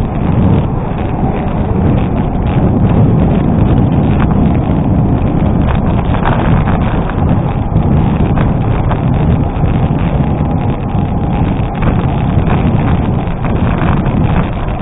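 Bicycle tyres rolling over a gravel road: a steady crunching rattle with many small clicks, mixed with wind buffeting the microphone.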